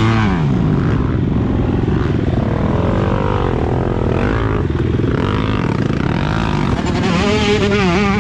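Four-stroke motocross bike engine, a KTM 250 SX-F, revving up and down over and over as the throttle is worked through the ride, then held at a steadier, wavering rev near the end.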